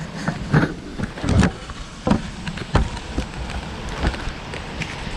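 Gusty storm wind blowing steadily, with about five sudden thumps and knocks scattered through it.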